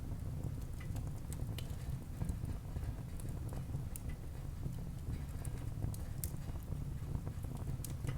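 Wood fire burning in a fireplace: a steady low rumble of flames with irregular sharp crackles of the burning wood scattered throughout.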